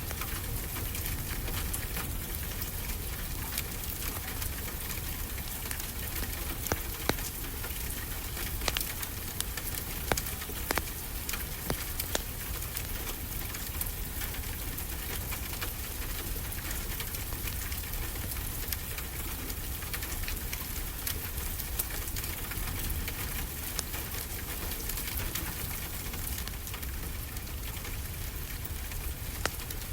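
Wood fire crackling with scattered sharp pops over a steady hiss of ocean waves.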